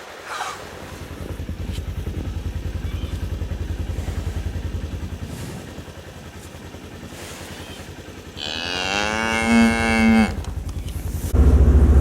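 A cow moos once, loud and drawn out for about two seconds, over a vehicle engine idling with a low steady pulse. Near the end the engine gets much louder.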